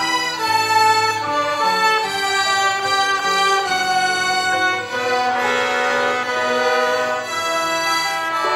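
Violin ensemble playing a slow hymn melody in several parts, each note held for about half a second to a second.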